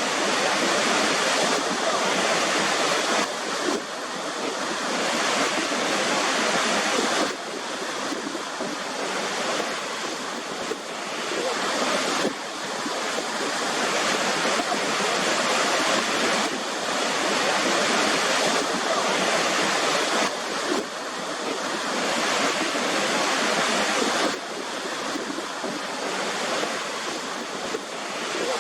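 Waterfall: a steady rush of falling water, changing in level abruptly every few seconds.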